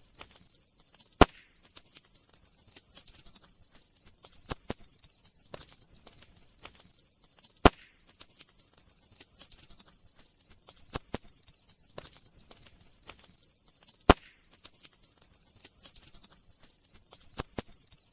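Wood fire crackling: irregular small snaps over a faint high hiss, with three sharp louder pops, about a second in, midway and about three-quarters of the way through.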